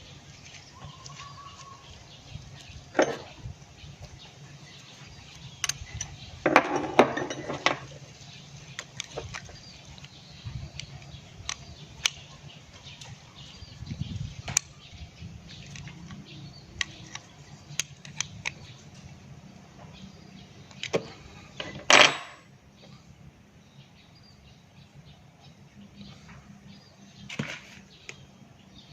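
Tools and small metal engine parts clinking and knocking now and then during small-engine repair work, with a short run of clatter about a third of the way in and one louder sharp clank about two-thirds of the way through.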